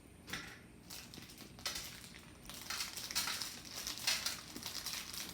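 Plastic packaging of Lego pieces crinkling and rustling as it is cut open and handled, in a run of irregular noisy bursts that grow busier after the first second or two.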